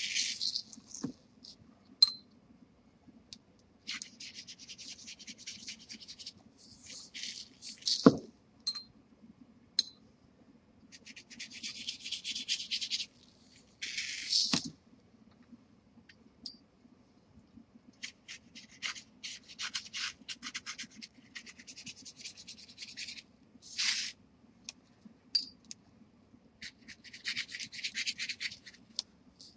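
Oil pastel rubbed across watercolor paper in bursts of quick back-and-forth scribbling strokes, each lasting a second or a few seconds, with pauses between. A few sharp knocks break in, the loudest about eight seconds in, over a faint steady low hum.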